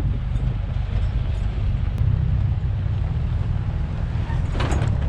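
Wind buffeting the microphone, a steady, unsettled low rumble, with a short, sharper sound near the end.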